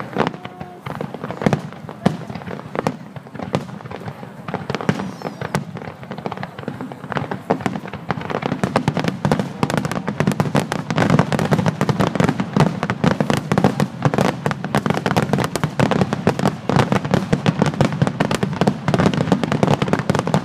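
Aerial fireworks bursting in quick succession. The bangs thicken about eight seconds in and get louder, into a dense, near-continuous barrage of bangs and crackling.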